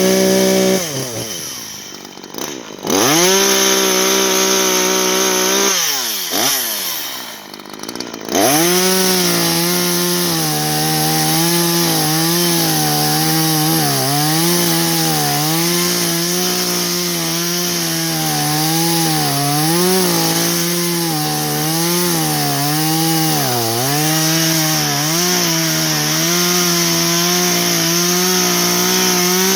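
Two-stroke chainsaw revved to full throttle and dropping back twice in the first several seconds, then held wide open while cutting firewood. Its pitch wavers and dips repeatedly as the chain loads up in the wood, and it falls off right at the end.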